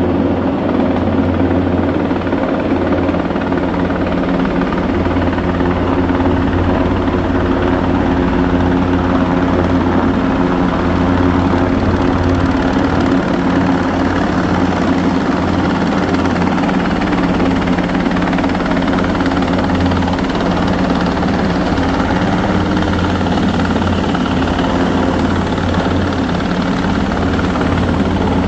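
Helicopter running close by: a loud, steady rotor and engine drone that holds an even level throughout.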